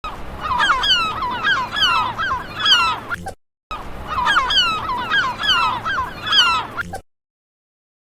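A flock of birds calling, with many short calls dropping in pitch and overlapping one another. The same stretch of about three seconds plays twice, with a short break between.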